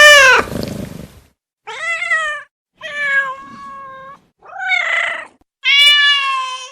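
Domestic cat meowing repeatedly: five drawn-out meows in a row, about a second apart.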